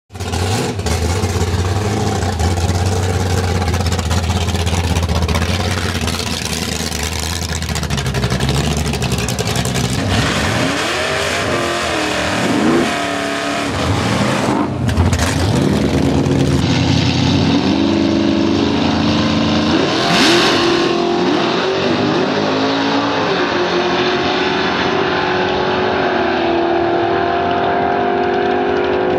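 Drag car's 351 Cleveland V8 running: a steady low rumble for about ten seconds, then revved up and down several times, then a long, slowly rising note as it pulls away down the strip.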